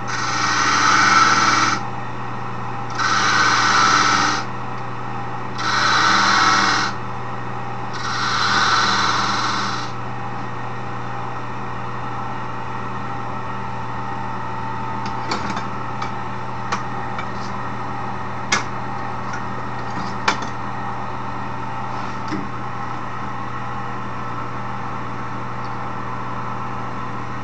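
Wood lathe motor running steadily. In the first ten seconds a turning tool cuts into the spinning wood four times in short scraping bursts, as grooves are cut into a wooden handle. After that a few light ticks sound over the steady hum.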